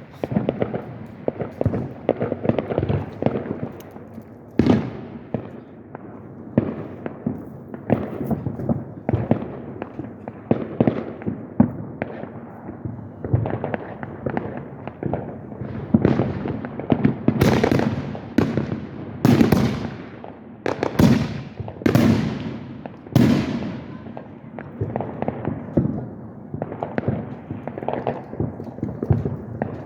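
Aerial fireworks going off in quick succession, a steady barrage of bangs and crackling. About two-thirds of the way through comes a run of five or six louder, sharper booms, a second or so apart.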